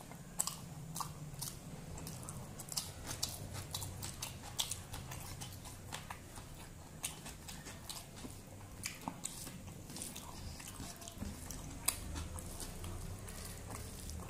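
Close-miked chewing of rice with cauliflower and cabbage fry eaten by hand, full of sharp, irregular wet mouth clicks and smacks, over a steady low hum.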